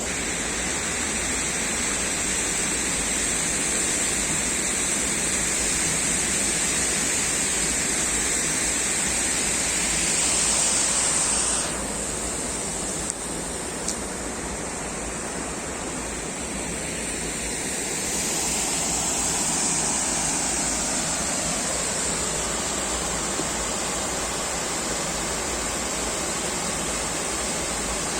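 Waterfall: a steady, continuous rush of falling water, its tone shifting abruptly about twelve seconds in and again about eighteen seconds in.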